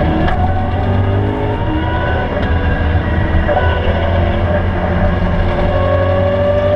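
BMW E92 M3's V8 engine heard from inside the cabin, running under load with its pitch climbing slowly as the revs rise, over a steady low drone.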